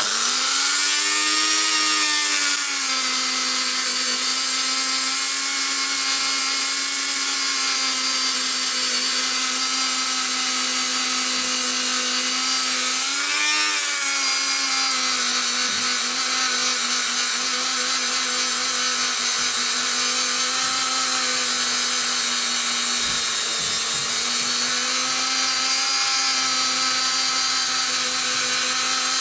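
Dremel rotary tool with a polishing head buffing a metal shock absorber housing with polishing paste. It starts up with a rising whine, then runs at a steady high whine whose pitch wavers briefly about halfway through.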